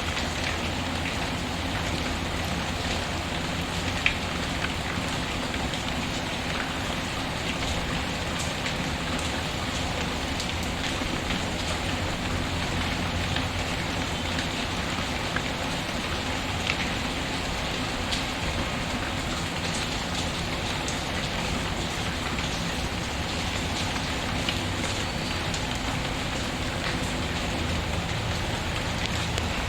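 Steady rain falling on a surface, mixed with a wood fire whose few sharp crackles stand out above the rain.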